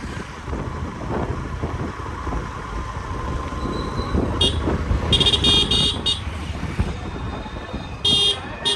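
Vehicle horn honking: a short toot, then a longer blast about a second later, and two short toots near the end, over a steady rumble of passing traffic and wind.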